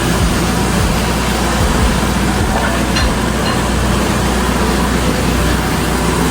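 Tow truck's engine running steadily, a low hum under a loud even rush of noise.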